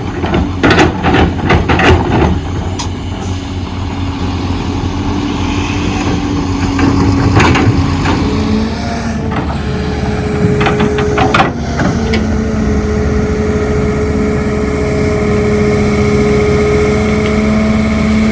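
Excavator at work: its diesel engine runs steadily under load with a held whine that shifts in pitch about halfway. Rapid metallic clanks come in the first couple of seconds, and a few more clanks come around the middle.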